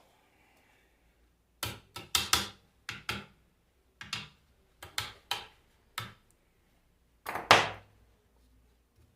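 A dozen or so sharp knocks and clunks at uneven intervals, the loudest near the end: tools and parts being handled at a workbench.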